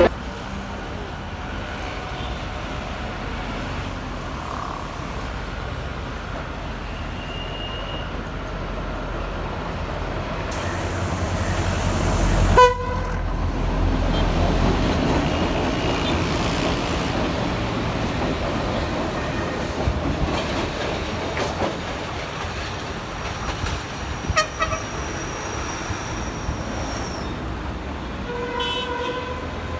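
Sri Lanka Railways Class M7 diesel locomotive running, its noise building to a peak about twelve seconds in, with a short horn toot near the end.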